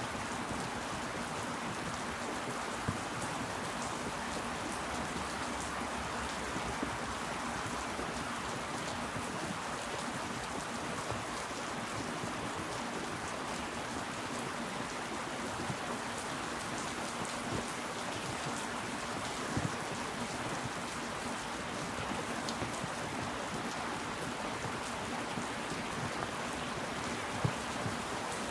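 Steady rainfall: an even hiss of rain, with now and then a single louder drop striking close by.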